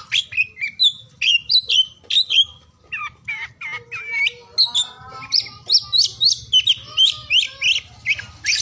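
Oriental magpie-robin (kacer) singing a fast, varied song of short whistled notes, chirps and brief trills, phrase after phrase without a break.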